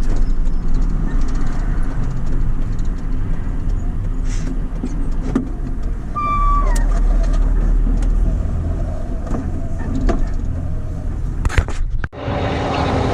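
Steady low rumble of a truck's diesel engine running. About six and a half seconds in there is a short squeal that bends downward, and near the end the sound drops out for an instant, then comes back noisier.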